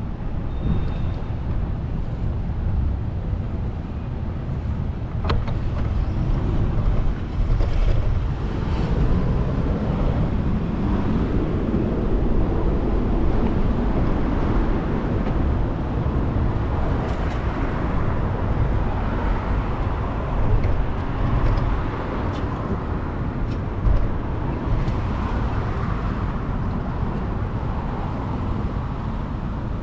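Wind rushing over the microphone while cycling along city streets, with motor traffic going by; the traffic swells in the middle of the stretch.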